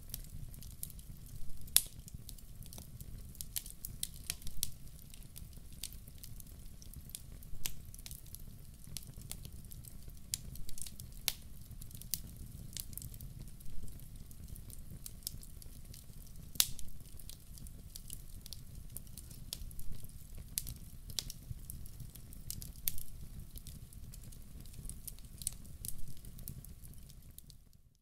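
Wood fire in a fireplace crackling: frequent sharp pops and snaps at irregular intervals over a low, steady rumble of the flames.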